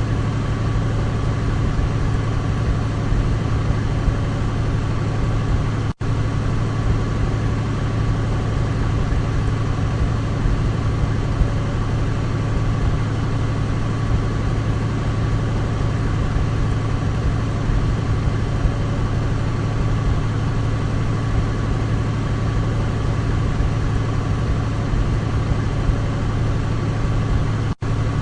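Douglas DC-3's twin piston radial engines droning steadily at an even pitch, with two momentary dropouts, about six seconds in and near the end.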